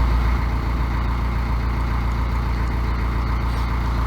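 Narrowboat's inboard diesel engine running steadily under way, a deep, even rumble with a rapid regular beat.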